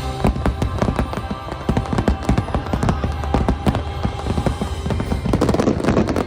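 A finale barrage of fireworks: many rapid bangs and crackles, thickening toward the end, over loud Christmas show music. Both cut off together at the very end.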